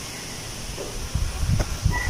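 Wind blowing through tree leaves, a steady rustling hiss. From about halfway in, irregular low gusts buffet the microphone.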